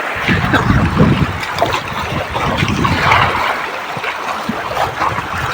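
Rushing river water and splashing heard from a raft on the river, with a heavier low rumble in the first second and a half.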